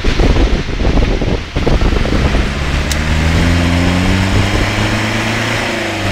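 Land Rover Series off-roader's engine working hard as the vehicle struggles in deep mud: rough and uneven for the first two seconds, then a steady, sustained high engine note, climbing slightly.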